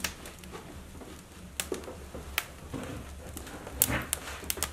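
Oak logs burning in a fireplace, crackling with scattered sharp pops that come more often near the end.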